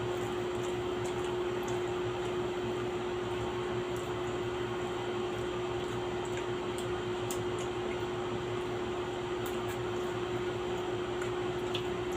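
Steady hum and even hiss of a small running motor, unchanging throughout, with a few faint short clicks scattered through it.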